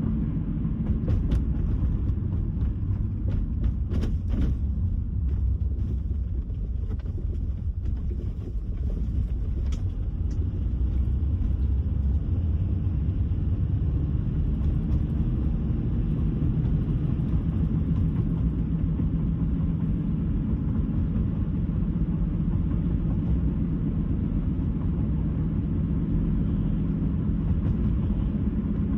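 Road noise of a car driving at steady speed: an even low rumble of tyres and engine. There are a few light clicks about one to five seconds in.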